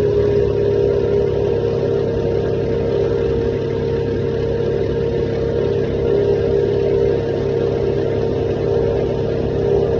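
Compact Japanese tractor's diesel engine running steadily at a constant pitch while pulling a furrowing plough.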